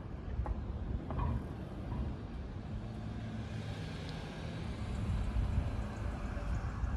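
Honda GL1200 Gold Wing's liquid-cooled flat-four engine running steadily, with a couple of light mechanical clicks in the first second or so and the engine getting a little louder after about five seconds.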